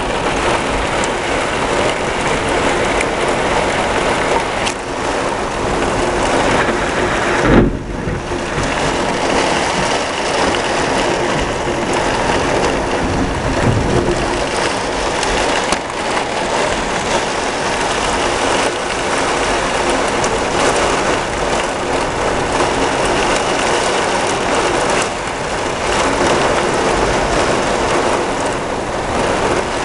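Heavy rain pouring steadily in a thunderstorm, with a short, loud thump about seven and a half seconds in.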